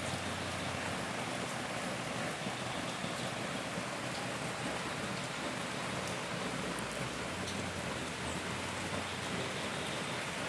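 Steady, even hiss of noise with no distinct events, like rain.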